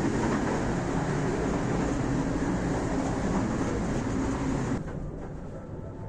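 Passenger sleeper train running: a steady rumble and hiss of rail noise that drops abruptly about five seconds in to a quieter, duller rumble.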